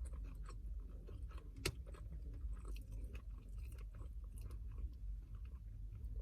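Close-miked chewing of a burger loaded with fresh vegetables: soft crunching and wet mouth clicks, with one sharper click about a second and a half in. A steady low hum runs underneath.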